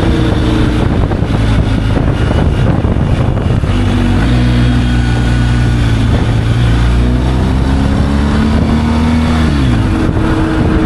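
Motorcycle engine running on the road, heavy wind rush over it. The engine pitch falls at first, holds steady for several seconds, then drops sharply near the end.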